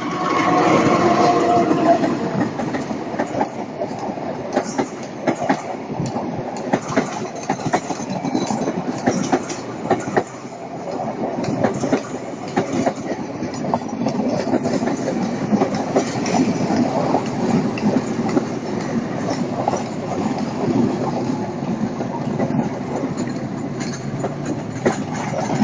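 A train running past, its wheels clacking over the rail joints in a steady, dense run of clicks.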